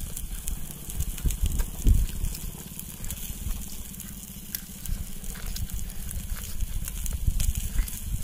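Wind buffeting the microphone as a fluctuating low rumble, with scattered faint crackles and clicks.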